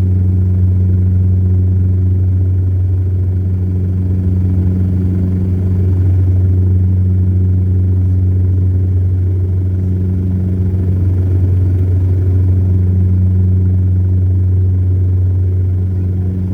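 Saab 340 twin-turboprop engines and propellers heard inside the passenger cabin on approach: a loud, steady low drone with a higher hum that swells and fades every few seconds.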